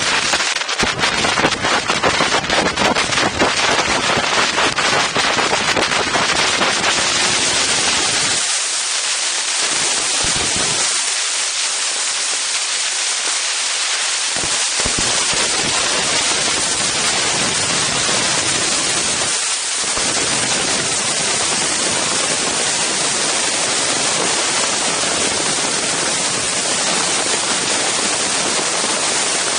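Strong wind buffeting the microphones of an Insta360 One X camera. For the first several seconds it is a dense, rapid crackling; from about seven seconds in it settles into a steady, loud rushing hiss.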